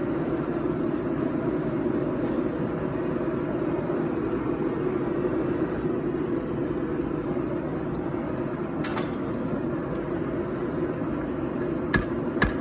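Steady rushing noise of a forge running while the steel heats. A single sharp metallic strike comes about nine seconds in, and hammer blows ringing on the anvil begin in the last second.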